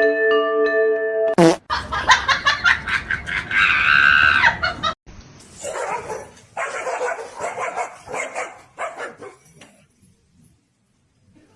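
A dog vocalising in short repeated bursts, after a few chiming mallet notes at the start and a quick swish.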